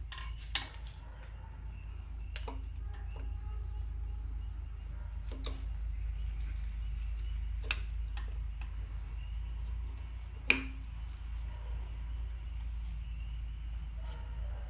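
Scattered metal clicks and knocks of pistons being fitted into a Jeep 2.5 L four-cylinder engine block, with one sharper knock about ten and a half seconds in, over a steady low hum.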